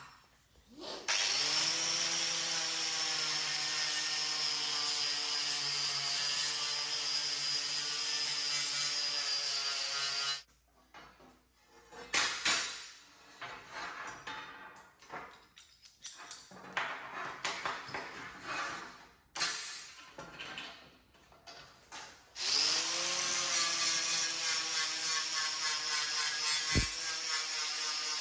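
An electric power tool's motor spins up and runs steadily for about nine seconds. About twelve seconds of irregular knocks and clatter follow, then the motor spins up again and runs to the end.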